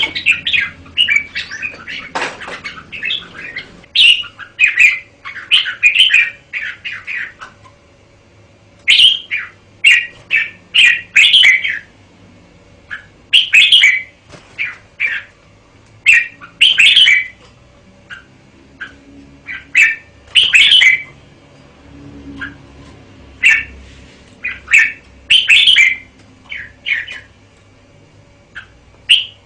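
Red-whiskered bulbul singing: short bursts of bright chirping phrases, one after another with brief pauses between them.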